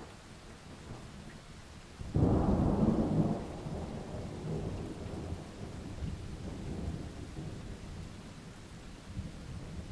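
A thunderclap breaks about two seconds in and rolls off into a long rumble that fades over several seconds, over steady rain.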